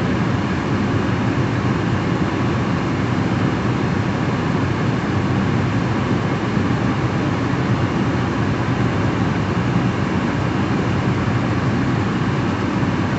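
Peugeot 406 Coupé engine idling steadily from a cold start after a timing belt replacement, with a knock that seems to be easing as it runs.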